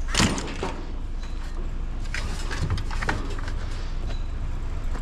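A vehicle driving, with a steady low engine and road rumble and loose rattles, and a sharp clunk about a quarter second in, with smaller knocks around two and three seconds in.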